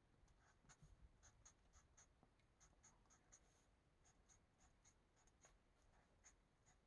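Faint, quick strokes of a coloring tool scratching back and forth on a paper page, about three or four strokes a second.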